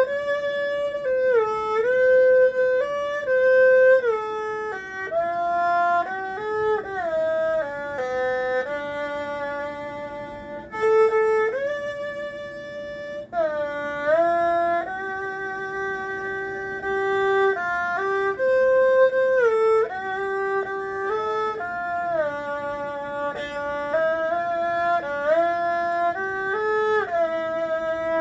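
Erhu playing a melody of held notes, sliding smoothly from one pitch to the next, over a quieter lower accompanying line.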